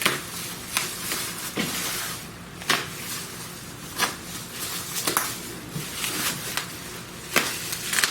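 Paper packing tape being pulled and torn off a cardboard package, heard as a series of short, sharp tearing and crinkling sounds, about eight over several seconds.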